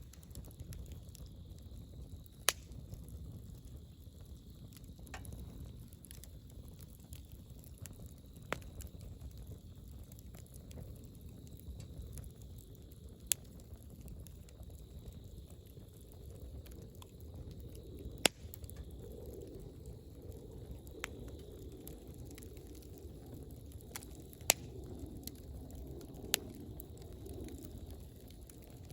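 Wood bonfire burning: a steady low rush of flames with irregular crackles, and sharp loud pops from the burning wood every few seconds.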